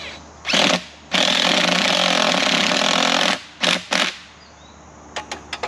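Power screwdriver driving a screw, running in bursts: a short burst, a run of about two seconds, then two quick short bursts.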